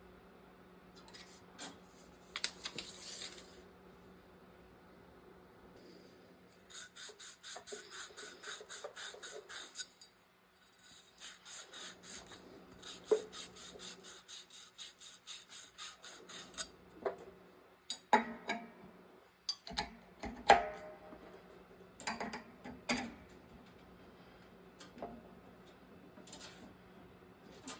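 Rhythmic rasping strokes of a hand tool worked back and forth, several strokes a second, in two runs with a short break. Then a string of scattered sharp clinks and knocks of hard tools and parts being handled.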